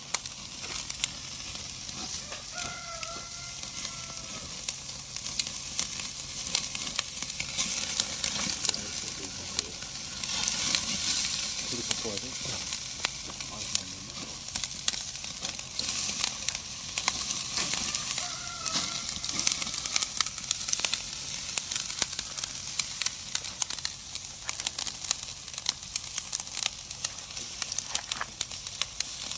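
Black-pork belly sizzling on a grill over a wood and charcoal fire, the fat spitting and crackling steadily, a little louder about a third of the way in.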